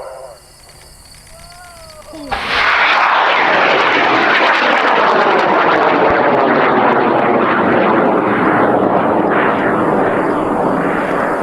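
High-power rocket motors lighting about two seconds in, with a sudden loud roar that holds steady for about nine seconds as the 100-pound rocket lifts off on its N2000 motor and eight J motors.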